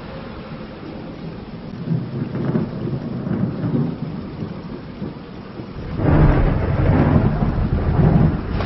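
Steady rain with rolling thunder; about six seconds in a much louder, deep rumble of thunder breaks in and keeps rolling.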